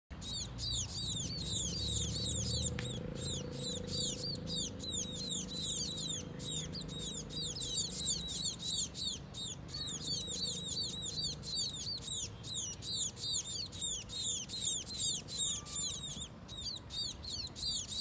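A small flock of small brown songbirds chirping constantly: many quick, high-pitched chirps overlapping without a break.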